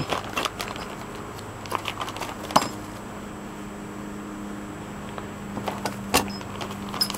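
Scattered metallic clicks and clinks of loose latch hardware and bolts being handled, with one sharp knock a little over two and a half seconds in. A steady low hum runs underneath from that point on.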